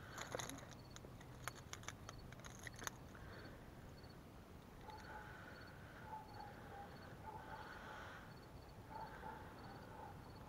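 Faint sharp clicks and rattles over the first three seconds as metal lip grippers and a lure's treble hooks are worked free of a landed bass. After that, faint short chirping calls repeat at an even pace.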